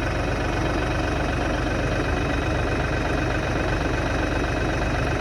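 LS tractor's diesel engine idling steadily, with an even low pulsing.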